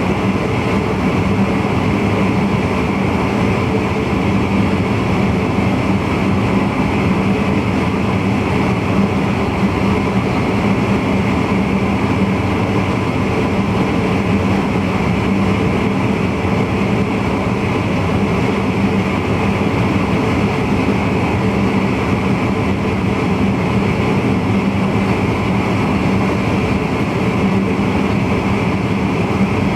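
Steady running noise of a VIRM double-deck electric intercity train heard from the driver's cab: a constant rumble with a low hum that stays at one pitch.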